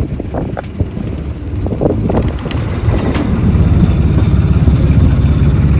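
Motorboat engine running, getting louder about two seconds in.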